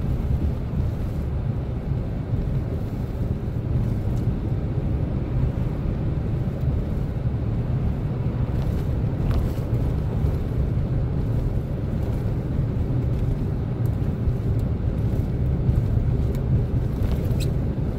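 Steady low rumble of a Chevrolet Silverado pickup driving, heard inside the cab: engine and road noise at an even level, with a few faint ticks.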